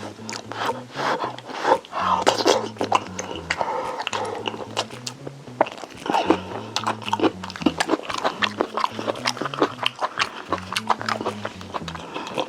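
Close-miked chewing and biting of Korean braised chicken (jjimdak): a dense run of wet mouth clicks and small crunches. Background music with a stepping bass line plays underneath.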